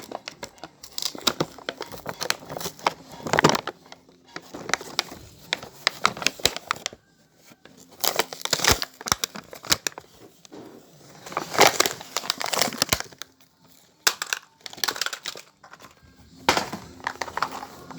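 Packaging crinkling, crackling and crunching as it is handled and torn open, in irregular bursts.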